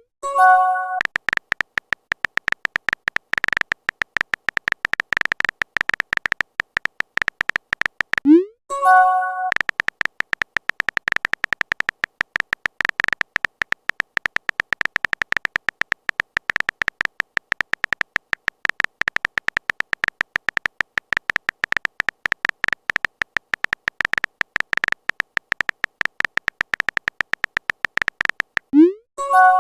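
Fast, continuous clicking of a phone-keyboard typing sound effect. It is broken three times, at the start, about eight and a half seconds in, and near the end, by a message-sent notification: a short rising swoop and then a bright chime.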